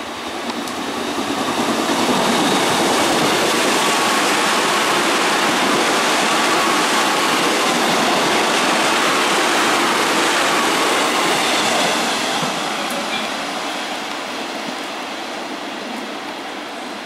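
Ten-car Korail 311000-series electric multiple unit running past the platform. The rush of its wheels on the rails builds over about two seconds, holds steady, and fades away from about twelve seconds in.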